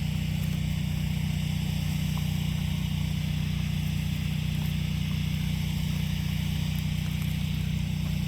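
Steady electrical hum and hiss, unchanging throughout.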